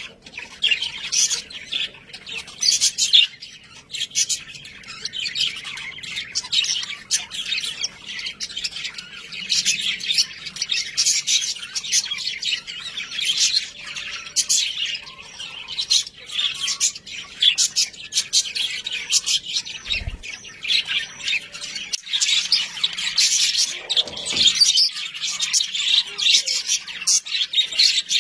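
Budgerigars chattering continuously: rapid chirps, warbles and squawks. A brief low thump comes about two-thirds of the way through.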